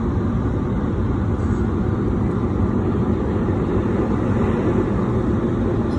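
Steady low rumbling noise inside a car's cabin at the end of an automatic car wash run.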